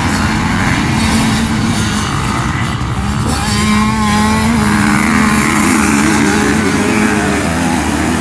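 Dirt bike engine running hard under load, with a steady engine note that firms up about three seconds in. Around four seconds in a second, wavering higher engine note cuts through, as of another motocross bike close by.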